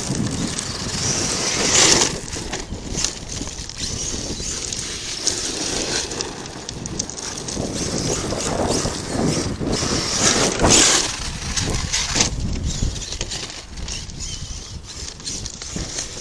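ARRMA Kraton 8S electric RC monster truck driving over dirt, its brushless motor whining up in surges as the throttle is opened, loudest about two seconds in and again near eleven seconds in.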